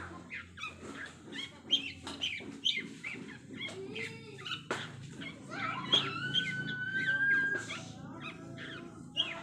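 Songbird chirps and calls in a quick, varied series, with a long steady whistled note about six seconds in, of the kind used to teach a caged long-tailed shrike new song material.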